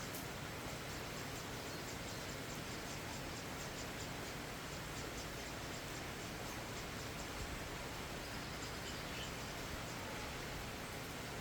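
Steady rain falling: a constant even hiss with many faint scattered ticks of drops.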